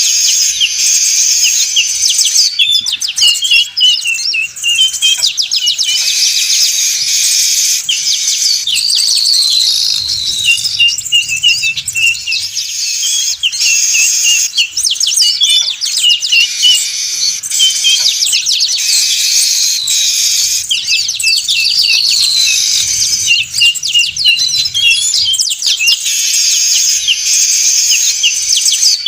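Noisy, busy chattering of many weaver birds (manyar), a dense mix of chirps, trills and short falling whistles, played as a bird-trapping lure recording. The same stretch of calls repeats in a loop about every 13 seconds.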